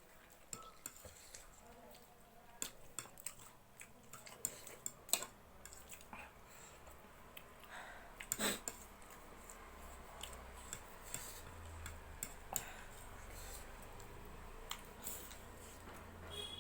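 Scattered light clicks and taps of eating utensils against dishes during a meal, with a few louder clinks.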